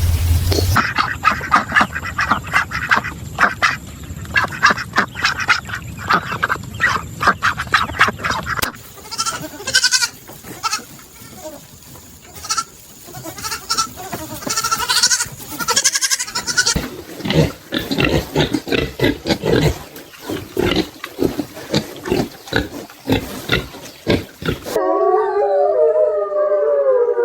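A run of short clips of animal calls: rapid, repeated grunting and squealing from livestock. About 25 s in, a long wavering howl begins.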